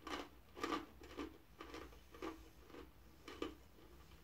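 A person chewing a mouthful of dried, wasabi-coated green peas, with faint crunches at about two a second.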